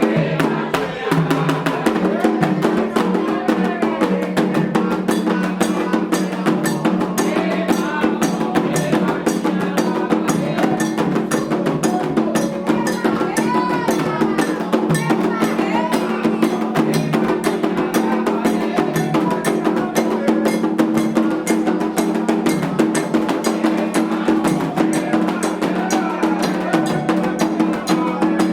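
Candomblé ritual drumming: hand drums and struck percussion keep a fast, dense beat, with voices singing over it.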